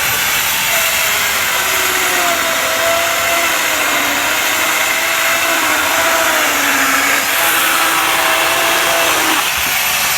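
Bosch angle grinder fitted with a mini chainsaw attachment, running and sawing through wood, its motor pitch wavering under load. The chain is worn from a lot of use.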